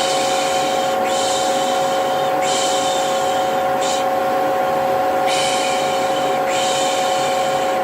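Vacuum cleaner running steadily with a constant motor whine. Over it, a voice shushes 'pış pış' in hissy bursts about a second long, several times, the soothing shush used to settle a baby.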